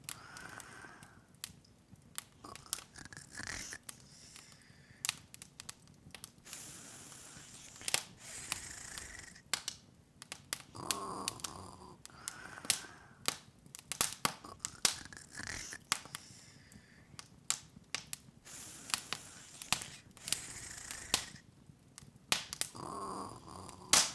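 Open fire in a fireplace crackling: irregular sharp pops and snaps, coming thick and fast at times, over a soft background hiss.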